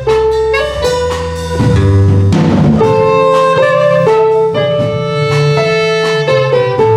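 Live instrumental ensemble music: held melody notes over a moving bass line, with a brief noisy crash about two and a half seconds in.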